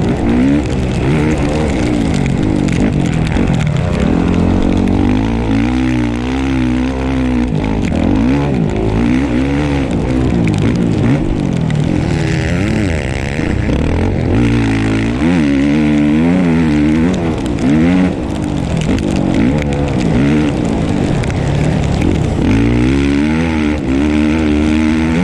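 Dirt bike engine revving hard and backing off over and over as it is ridden around a motocross track, its pitch climbing and dropping every second or two.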